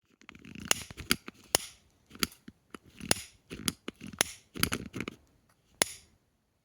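A series of irregular sharp snaps and crinkles with softer rustling between them, like stiff, crinkly material being handled or crumpled. The sounds come in bursts for about six seconds and then stop.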